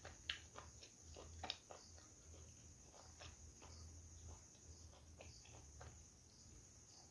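Quiet eating sounds of a man eating with his hand: soft chewing and mouth clicks scattered throughout, the two loudest clicks in the first second and a half, over a low steady hum.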